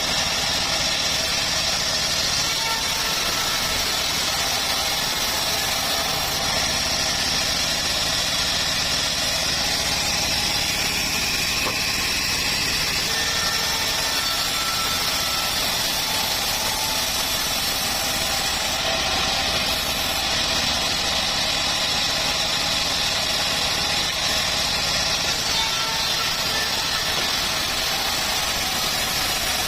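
Homemade bandsaw mill running steadily.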